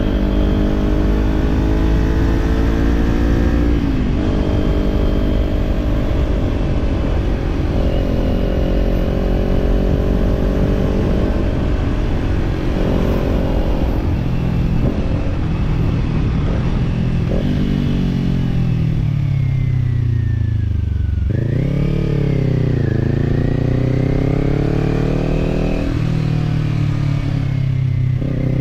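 Kawasaki parallel-twin motorcycle engine under way, its note climbing and falling with the throttle and broken by several gear changes, with a sharp drop and quick rise near the middle.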